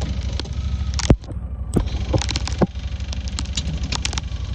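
Side-by-side UTV engine running at a steady low drone as it drives through deep snow, with scattered sharp clicks and knocks over it, the loudest about a second in.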